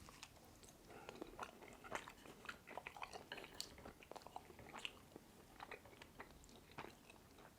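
Quiet close-up chewing and wet mouth smacks: a person eating chili-oil-drenched noodles and lamb, with many small, irregular clicks.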